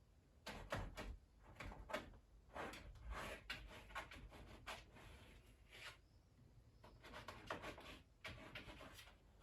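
Irregular rustling, scraping and light knocks in a quiet room, in two clusters with a short lull about six seconds in.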